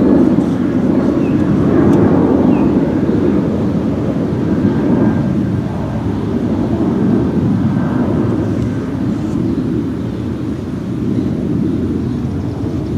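Jet airliner climbing out after takeoff: a loud, deep rumble that slowly fades.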